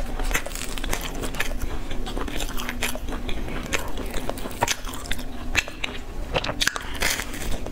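Close-miked chewing of a brown cake slice, with many irregular small crunches and wet mouth clicks.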